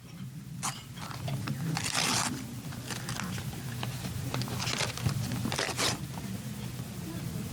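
Paper being opened and handled close to the microphone, rustling and tearing in several short irregular bursts with small clicks, over a steady low hum: most likely the winner's envelope or card being opened before the name is read.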